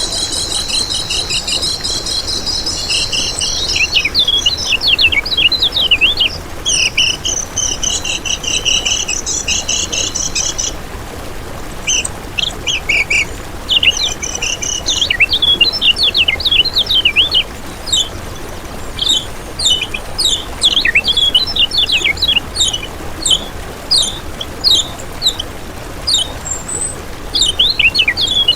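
Kecial kuning (a white-eye) singing a high, rapid twittering song: buzzy trills at first, then strings of quick sliding chirps, with a short pause about eleven seconds in.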